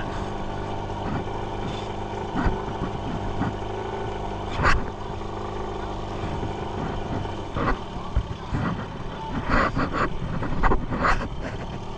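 A vehicle engine running steadily, with a few sharp knocks now and then, more of them near the end.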